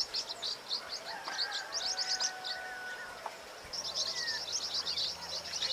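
Birds chirping in a dense chorus of rapid high notes, with a brief pause about three seconds in.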